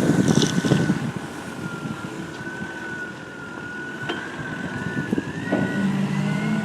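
Wheel loader running, with a steady mechanical whine that wavers and then rises in pitch toward the end. Wind buffets the microphone in the first second, and a short repeated beeping like a reversing alarm starts about five seconds in.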